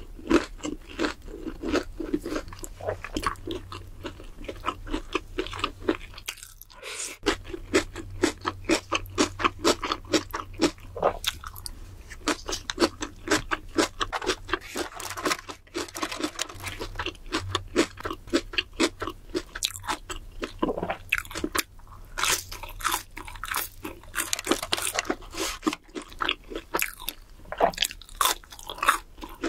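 Crisp crunching and chewing of fried fast food, mainly french fries, with a bite into a breaded cheese stick near the end.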